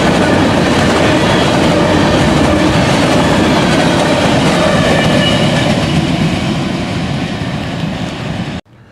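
Empty covered grain hopper cars of a freight train rolling past at close range: steady, loud wheel-on-rail noise that eases slightly, then cuts off suddenly near the end.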